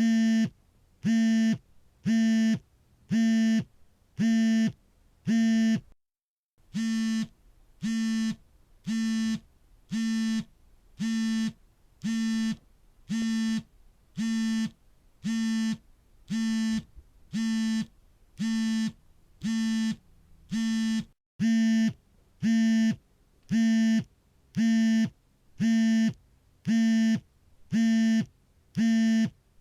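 Smartphone buzzing on vibrate, a steady buzz in pulses of about half a second, repeating about once a second, with a brief break about six seconds in.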